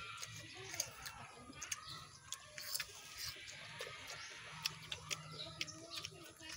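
Quiet chewing of raw jicama, with a few short crisp crunches, while birds call in the background.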